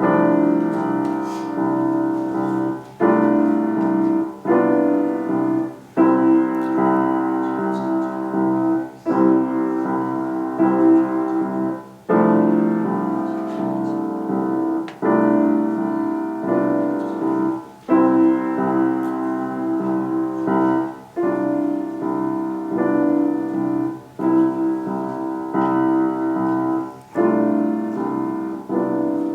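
Solo piano playing a slow, quiet church prelude, with sustained chords struck afresh about every three seconds.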